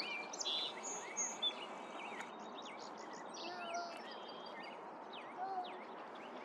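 Several wild birds singing and calling together over a steady background hiss: many quick overlapping chirps and sweeping whistled notes. Twice, about halfway through and again near the end, a lower, longer whistled note sounds.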